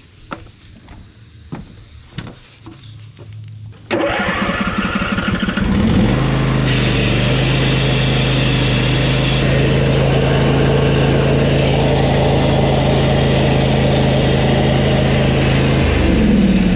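Craftsman YT4000 riding lawn mower engine being started: a few light clicks, then about four seconds in the starter cranks it for about two seconds, and the engine catches and runs steadily. Its note shifts near the end.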